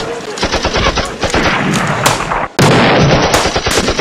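Rapid gunfire from rifles firing blank cartridges, many sharp shots in close succession. The firing briefly drops away about two and a half seconds in, then comes back loud.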